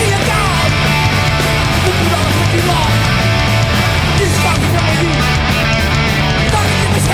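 Hardcore punk band playing a song live at full volume: a dense, steady wall of electric guitar, bass and drums.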